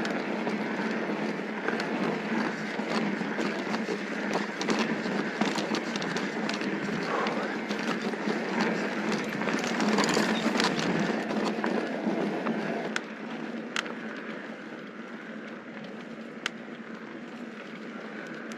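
Mountain bike rolling over loose dirt and gravel: a continuous crunch of tyres with scattered rattling clicks from the bike. It is louder for the first two-thirds and then eases off to a quieter rolling sound with occasional clicks.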